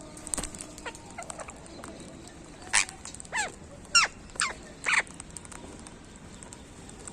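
Parakeet giving five short, sharp calls in quick succession, each falling in pitch.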